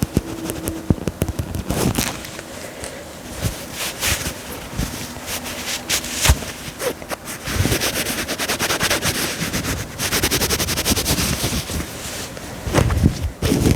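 Dress fabric being scratched in quick, crackly strokes, getting faster and denser about halfway through.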